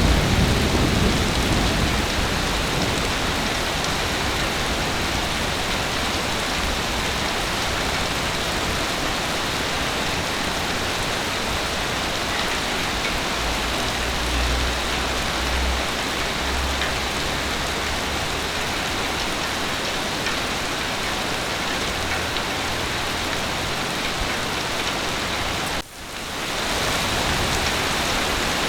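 Heavy rain falling with a steady hiss, with a low rumble of thunder fading out at the start and another low rumble about halfway through. Near the end the sound cuts out for an instant and fades back in, the join of a looped recording.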